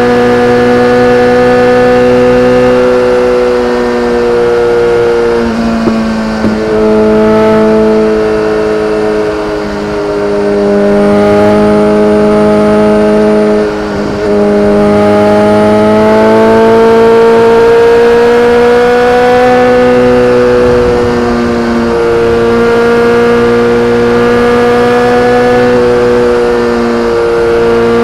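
BMW K1300R inline-four running through an Akrapovic exhaust, holding a steady, high engine note that rises and falls slightly in pitch. The note dips briefly about six seconds in and again about fourteen seconds in.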